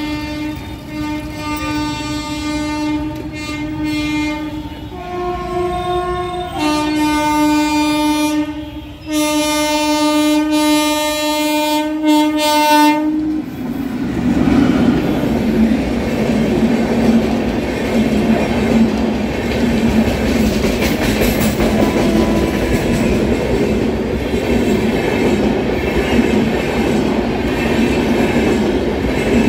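An Indian Railways electric locomotive sounds its horn in one long, steady blast that changes pitch briefly partway through and stops about 13 seconds in. The locomotive and its LHB passenger coaches then pass at speed with a heavy rumble and the clickety-clack of wheels on rail joints.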